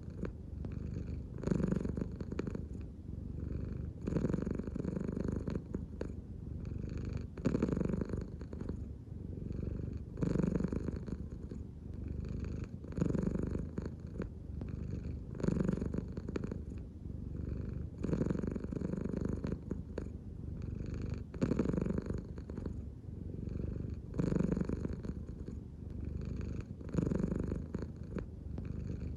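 American Shorthair cat purring steadily and close up, the purr swelling louder roughly every two and a half to three seconds with each breath.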